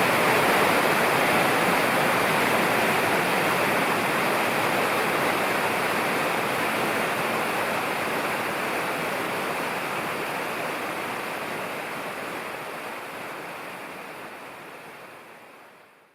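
Mountain river rushing steadily, a dense even roar of fast water, fading out over the last few seconds.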